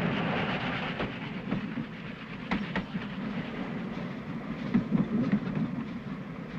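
Steam train running along the rails: a steady rumble with scattered sharp clicks of the wheels over the track.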